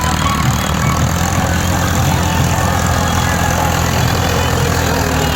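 Tractor diesel engine running steadily with an even low hum.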